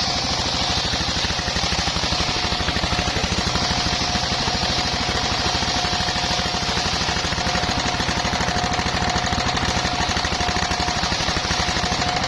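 Engine-driven circular sawmill running steadily, its engine pulsing rapidly and evenly under a steady high hum and a hiss that is typical of the blade spinning or cutting timber.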